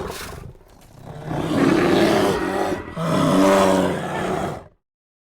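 Two loud, rough calls from a large animal, each about a second and a half long, the second stopping abruptly near the end.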